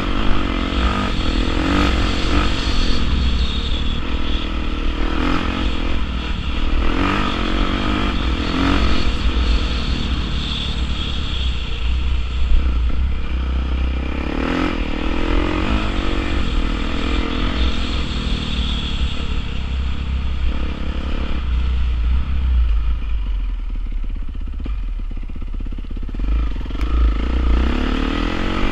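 Honda CRF450R dirt bike's single-cylinder four-stroke engine revving up and easing off again and again while riding, with a low rumble underneath. It quietens for a few seconds near the end, then picks up again.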